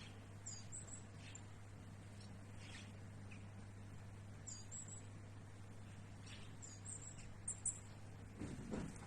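Small birds in trees giving short, high chirps in scattered clusters, over a steady low hum. A louder, noisy sound comes in near the end.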